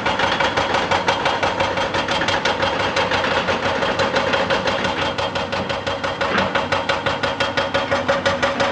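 Excavator-mounted hydraulic rock breaker hammering rock in a rapid, even train of blows, over the steady running of the excavator's diesel engine.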